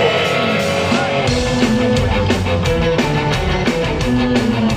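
Punk rock band playing an instrumental passage between sung lines, with electric guitar. A heavy bass and drum beat comes in about a second in.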